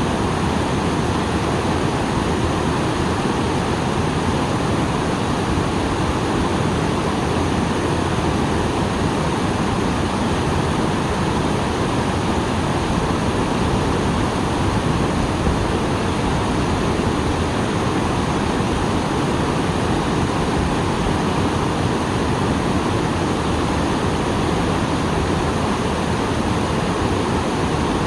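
Small waterfall, swollen after rain, splashing steadily: an even, unbroken rush of falling water.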